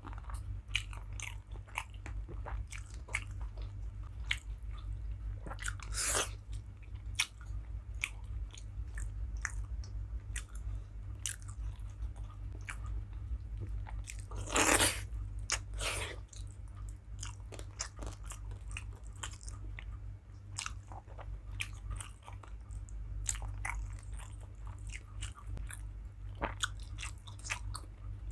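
A person chewing and eating rice and curry close to the microphone: repeated wet mouth clicks and smacks with occasional louder crunches, over a steady low hum.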